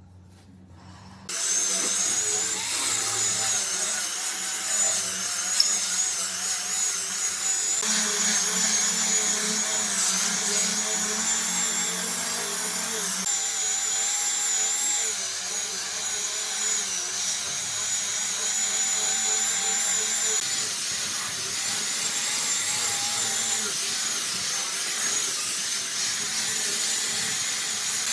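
A power tool working wood, starting about a second in and running steadily, its high whine wavering slightly as the load changes.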